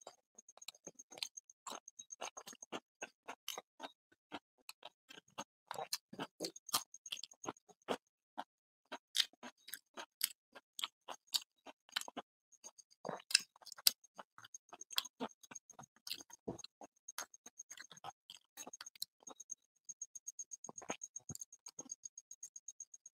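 Close-up eating sounds: a man chewing luchi with curry, with lip smacks and the crackle of fingers tearing the fried bread, heard as an irregular run of sharp clicks and smacks. A faint, high, rapid ticking comes and goes behind it.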